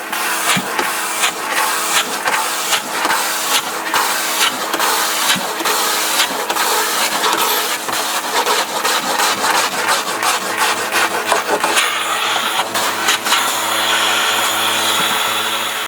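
A carpet-cleaning suction machine running over carpet: a steady motor hum under dense, irregular crackling and crunching, which eases to a smoother hiss about twelve seconds in.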